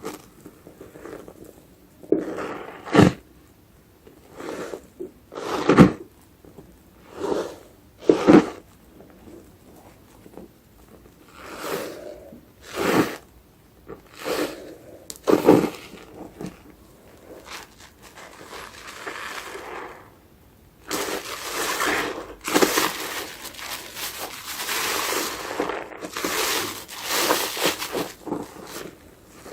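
Foam-soaked sponge being squeezed, giving single wet squishes one to three seconds apart. In the last third this gives way to a denser, steady crackling of the foam.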